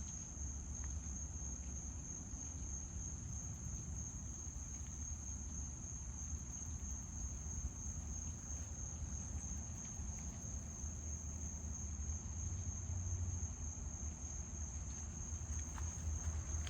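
Insects chirring in one steady, high-pitched chorus, over a low rumble.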